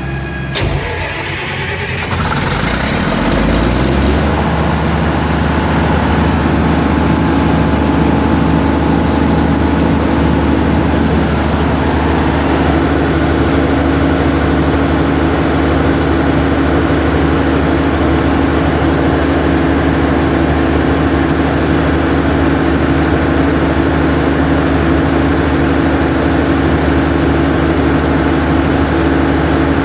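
Diesel engine of a Cummins 400 kVA generator set cranking on its electric starter and catching within about four seconds, then running up and settling into a steady, loud run.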